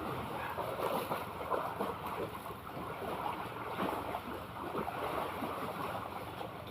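Sea water lapping and splashing in small, irregular slaps over a steady wash of noise.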